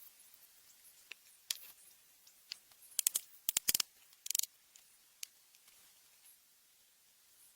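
A scatter of short, sharp clicks and snaps, most of them bunched together about three to four and a half seconds in.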